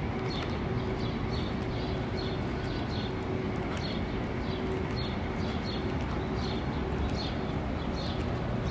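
A small bird chirping over and over, about two short, slightly falling chirps a second, against a steady low background rumble.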